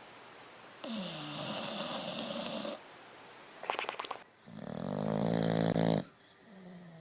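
A sleeping dog snoring: a long noisy breath, a short fluttering rattle about three and a half seconds in, then the loudest, a pitched snore that swells and cuts off about six seconds in.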